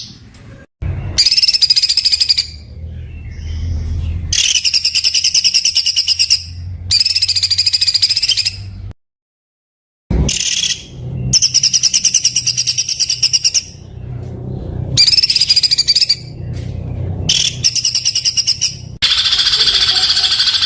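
Songbird song in harsh, very dense rapid-fire bursts ("tembakan kasar"), each a fast rattle of notes lasting one to two seconds, repeated about seven times with short pauses. The sound cuts out completely for about a second near the middle.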